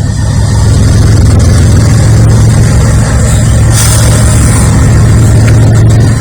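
Norfolk Southern diesel locomotive's engine running loudly close by, a steady low drone that swells over the first second and drops off sharply near the end.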